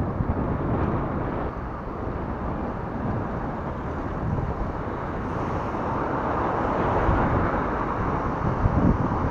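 Wind buffeting the microphone with rushing noise while riding a recumbent bicycle. The rushing swells and brightens in the second half.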